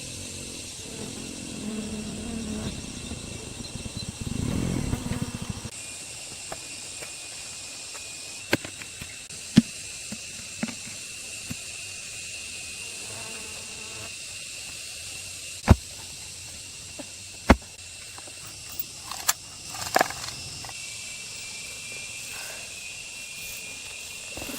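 Steady high chirring of insects, with a low rumbling noise for the first few seconds and then several sharp, separate knocks scattered through the rest.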